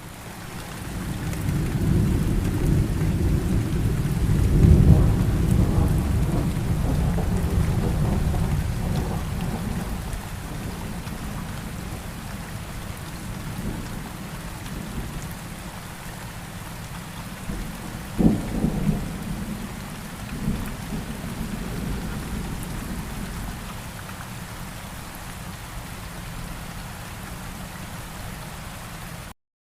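Steady rain falling, with a long roll of thunder that swells in the first few seconds and slowly fades, and a sharper thunderclap about 18 seconds in.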